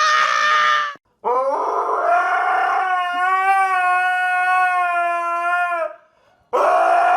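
Dog howling in long, steady held notes: a short howl that ends about a second in, a long one lasting several seconds, and another starting near the end.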